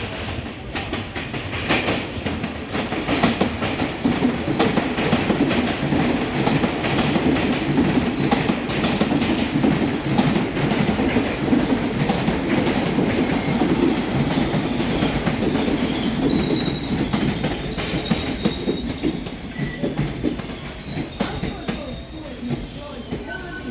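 New York City subway train running by, wheels rumbling and clattering over the rail joints. In its later part a thin, steady wheel squeal comes in as the noise eases off.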